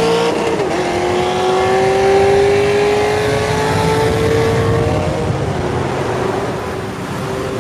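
Car engine at full throttle, accelerating hard in a roll race. Its note climbs, drops sharply on an upshift about half a second in, climbs steadily again, then falls off about five seconds in.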